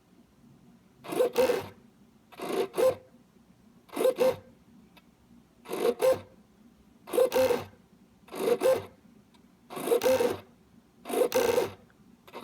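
Blue Bird A10S servo's motor and gear train buzzing in short double bursts, about eight times, roughly every second and a half. Each burst is the servo slewing to a new position and stopping, as in a repeated speed and centering test.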